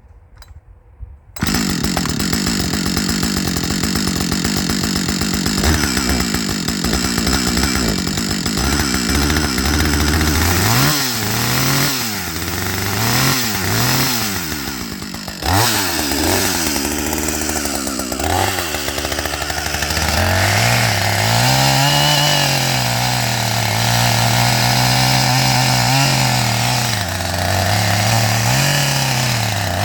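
Husqvarna 555 two-stroke chainsaw running loud, coming in suddenly about a second in. In the middle it revs up and down several times, then holds at high speed with brief dips in engine speed.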